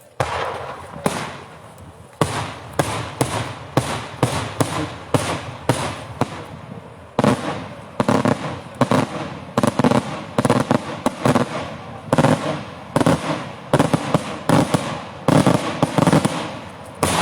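Daytime fireworks going off: a rapid, irregular barrage of loud bangs, each with a short echoing tail. It grows denser and louder about seven seconds in.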